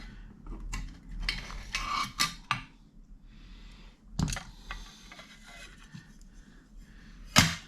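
Small clicks, light clatter and scraping of tools and parts being handled on a workbench, with a sharp knock a little after four seconds and a loud click near the end.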